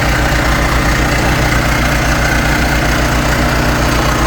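Heavy diesel truck engine idling steadily, with an even low pulsing.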